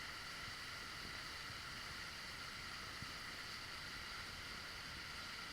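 Steady rush of water from a waterfall, an even noise that holds at one level throughout.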